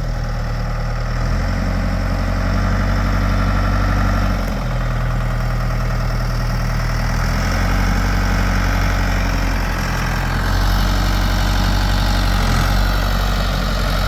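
A large engine running steadily, its speed stepping up and down a few times as the machine works.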